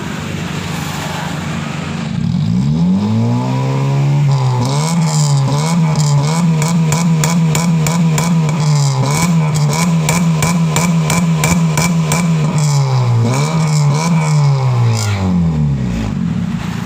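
Honda Civic engine through an aftermarket HKS exhaust, a deep bass note mixed with a raspy edge. It idles, revs up about two seconds in, is held at raised revs with repeated quick throttle blips, then drops back to idle near the end.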